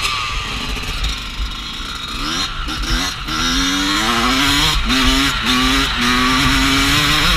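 Dirt bike engine revving as it is ridden, its note climbing, breaking off briefly and climbing again several times, growing louder about three seconds in.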